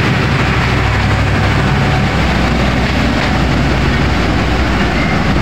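Passenger train coaches rolling past close by: a steady, loud rumble of wheels on rail. Near the end the train's power car, which carries its diesel generator, goes by.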